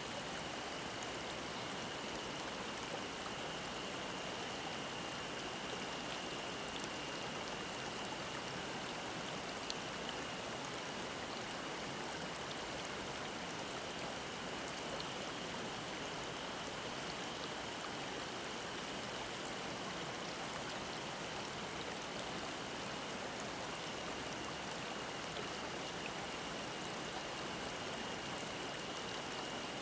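Mountain stream murmuring, an even rush of water, with a cicada's thin, steady high-pitched drone above it.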